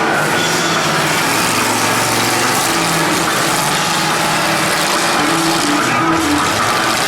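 Mega truck engine running loud and steady.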